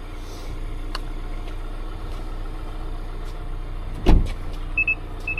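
A car with a glitching alarm: a steady low hum, a click about a second in and a thump about four seconds in, then short high beeps about twice a second near the end.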